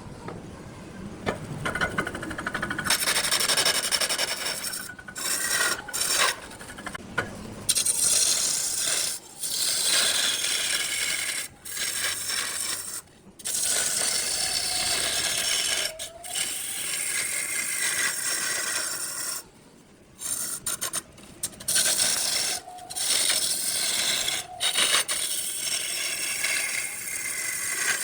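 Turning tool scraping and cutting a wood block spinning on a lathe, in repeated passes broken by short pauses.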